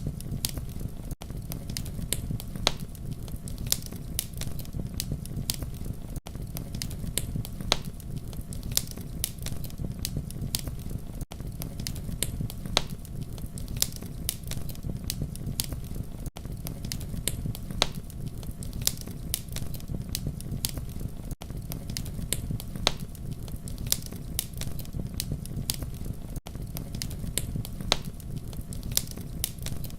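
Campfire burning: a steady low rumble of flames with frequent, irregular sharp crackles and pops. The sound briefly dips about every five seconds.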